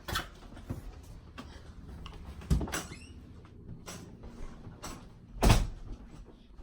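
A few short knocks and thumps over a low background, the loudest about five and a half seconds in.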